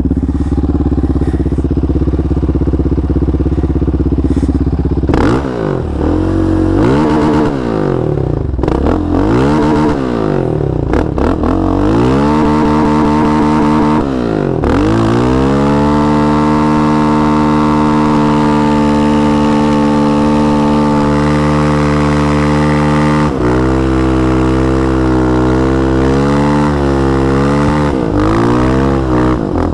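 Yamaha Raptor 700 single-cylinder quad engine, big-bored to 734 cc and breathing through a Monster exhaust, running a stationary burnout. After about five steady seconds the revs climb and drop over and over as it goes up through the gears. It is then held at high revs for about eight seconds, and the pitch wavers up and down near the end.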